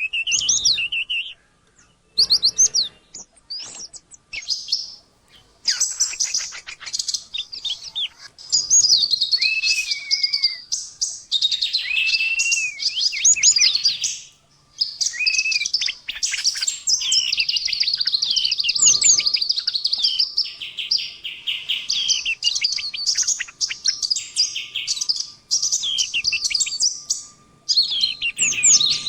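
Small songbirds singing a busy mix of sharp chirps, rapid trills and gliding whistles in quick, varied phrases. The song comes in short bursts at first, then runs almost without a break.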